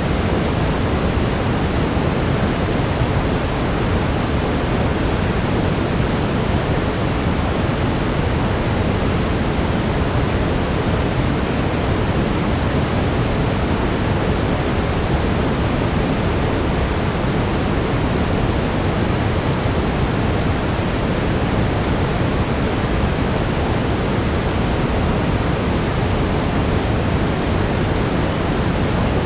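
Steady brown noise, a deep even hiss heaviest in the low end, with a faint steady tone just above 400 Hz running beneath it.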